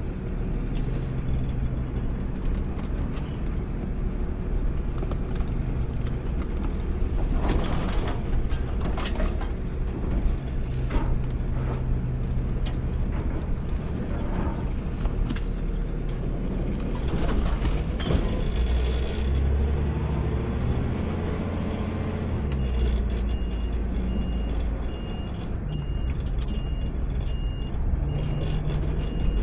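Automated sideload garbage truck's diesel engine running steadily, with scattered knocks and clatters partway through. A high beep repeats at an even pace near the end.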